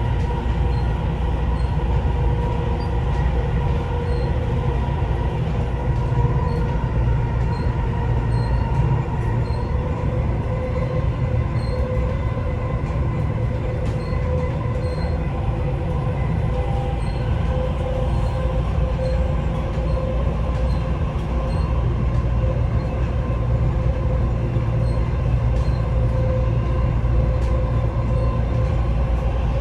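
Dubai Metro train running between stations, heard from inside the carriage: a steady low rumble with a whine at a couple of steady pitches. Faint high ticks come about once a second.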